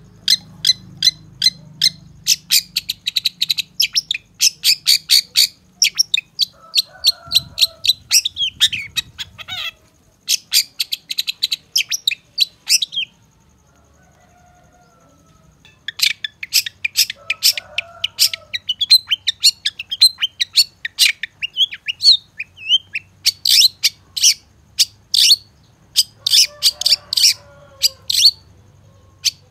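Long-tailed shrike singing in fast chattering runs of sharp, high notes, several a second, with a pause of a few seconds midway.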